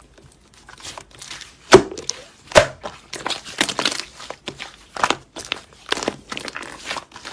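Slime being squeezed and pressed by hand, giving a quick irregular string of sharp crackly clicks and pops, the loudest a little under two seconds in.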